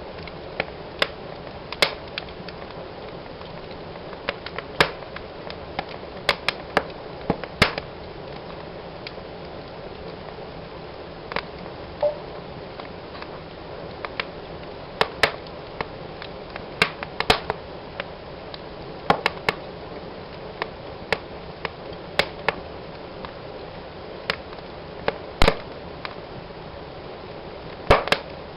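Fire burning in a fireplace: a steady hiss under irregular sharp crackles and pops, some coming in quick clusters.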